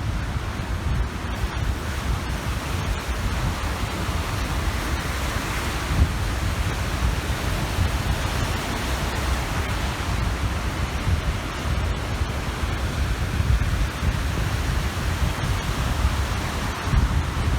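Waves washing steadily onto the shore of the Kapchagay reservoir, with wind buffeting the microphone in a low rumble that grows a little stronger near the end.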